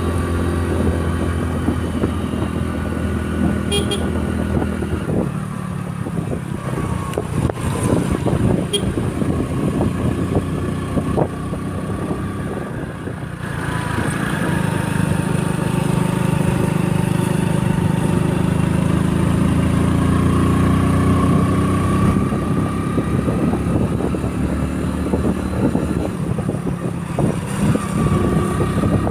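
Motorcycle engine running while riding, its note easing off about thirteen seconds in and then building again.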